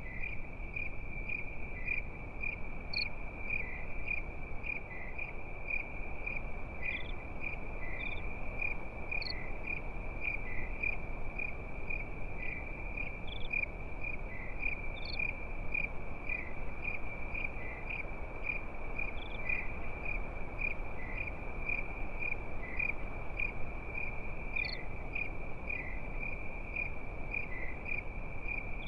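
Crickets chirping steadily at night, a high-pitched trill pulsing about three times a second, with a few higher chirps now and then over a steady low hiss.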